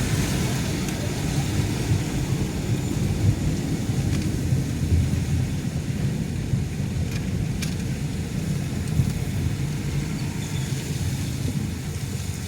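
Steady low rumble of a car being driven, engine and tyre noise heard from inside the cabin, with a couple of faint clicks a little past the middle.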